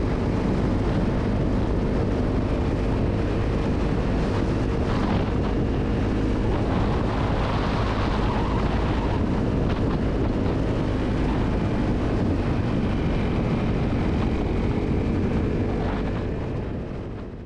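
Motorcycle engine running steadily while riding, with wind buffeting the microphone; the sound fades out near the end.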